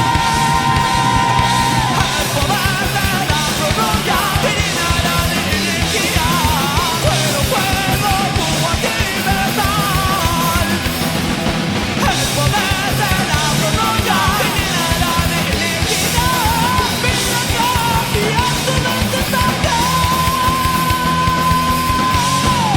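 Heavy metal song: distorted guitars, bass and drums, with a high lead line that holds a long note near the start and again near the end and bends and wavers in between.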